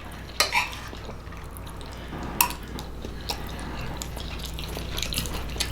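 Close-miked eating sounds: wet chewing and mouth smacking, with a few sharp clicks of cutlery against a plate or bowl.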